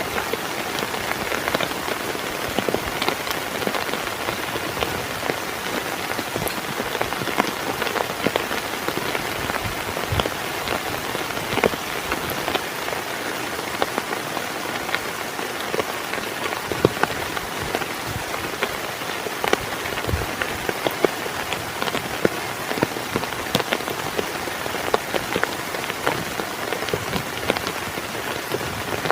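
Heavy rain falling steadily on a surface, a dense patter with many sharp individual drop hits.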